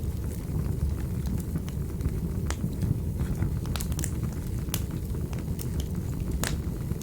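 Wood fire burning in a fireplace: a steady low rumble of the flames with irregular sharp crackles and pops, the loudest pop near the end.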